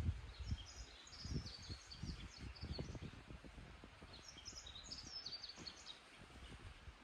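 Small birds chirping in quick high bursts, in two spells, over low irregular rustling and soft knocks.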